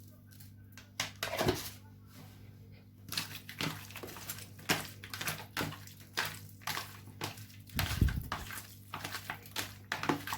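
Raw beef pieces being mixed with salt and spices in a bowl: irregular wet squishing and scraping, with a dull knock about eight seconds in, over a faint steady hum.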